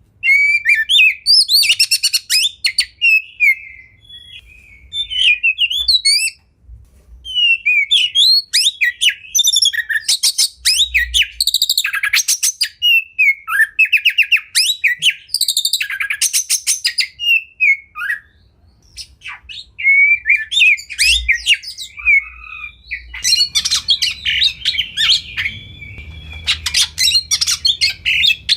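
Oriental magpie-robin (kacer) singing loudly and continuously: a varied song of whistled glides, fast rattling trills and chattering phrases, filled with mimicked calls of other birds. Brief pauses come about a third and two-thirds of the way through, and the song grows busier and denser near the end.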